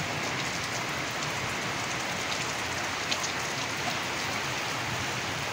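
Heavy rain falling steadily on a flat rooftop terrace, an even hiss with the odd sharper drop ticking close by.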